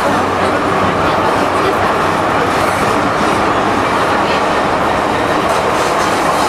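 MTR M-Train electric multiple unit running on the Tsuen Wan Line, a steady, loud rumble of wheels on track and motor noise with no change through the stretch.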